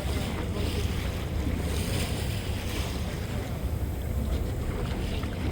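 Boat motor running steadily as a low rumble, with wind buffeting the microphone and water washing against the hull.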